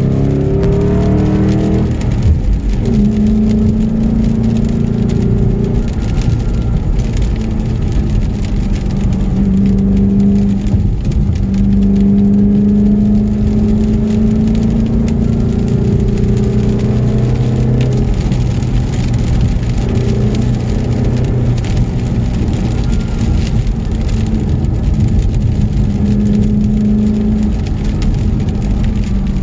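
Car engine running under way with steady road and wind noise, its pitch rising and falling as the throttle and gears change.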